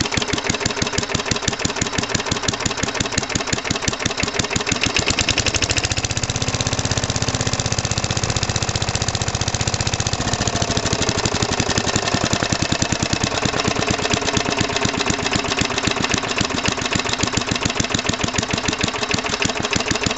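Hayter Hayterette mower's Briggs & Stratton single-cylinder engine running steadily after an unprimed cold start, each firing stroke plain. Its speed shifts between about five and ten seconds in, then settles back.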